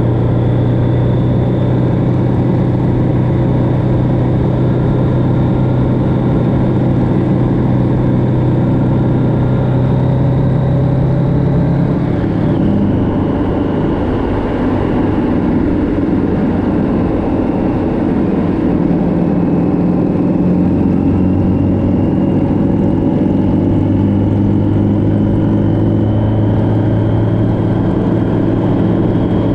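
Motorcycle engine running steadily under way, with rushing road and wind noise. About twelve seconds in its pitch drops suddenly, as on a gear change or easing off the throttle, then climbs slowly again over the last ten seconds.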